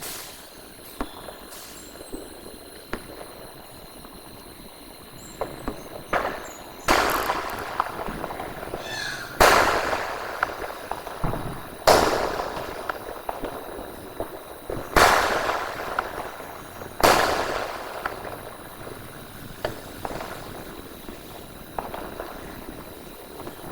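Sky shot aerial fireworks bursting: about five loud bangs two to three seconds apart, starting about seven seconds in, each trailing off, with smaller pops before and after them.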